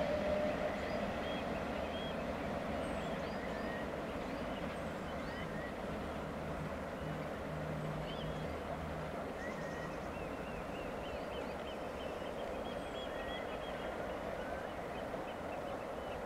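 Low, steady rumble of a departing train, fading slowly, with a faint hum about halfway through and birds chirping sporadically.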